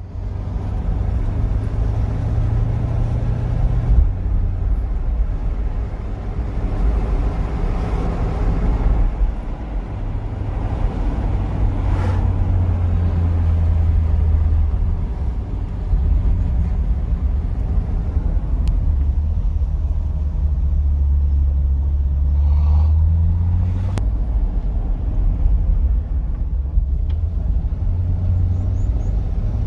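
Chevrolet Corvette C8 V8 with a custom exhaust, running and driving with a deep, loud exhaust note. The pitch steps down and climbs again several times as it changes speed or gear, and a few sharp clicks come through.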